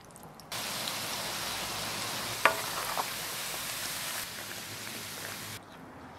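Oil sizzling in a wok as diced dried tofu fries in chili sauce, a steady hiss that starts abruptly and cuts off shortly before the end. Two sharp clicks sound about halfway through.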